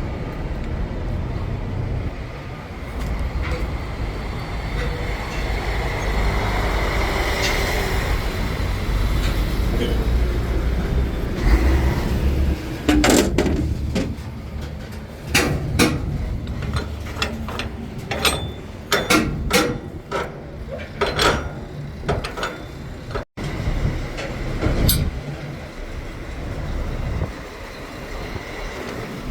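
Heavy truck's diesel engine running with a low rumble, then a long run of sharp clanks and knocks through the middle, some in quick clusters, before it settles back to the engine alone.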